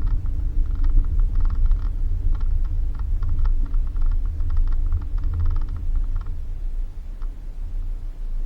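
Suzuki Jimny driving on a rough dirt road, heard from inside: a low rumble of engine and tyres with fast, dense rattling clicks from the body and interior that stop about six seconds in, leaving the rumble to ease off.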